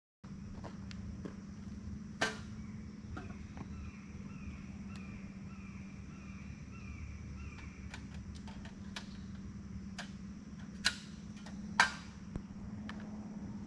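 Evening campfire ambience: a fire crackling with a few sharp pops, over a steady high insect drone. In the middle comes a run of about eight quick falling call notes.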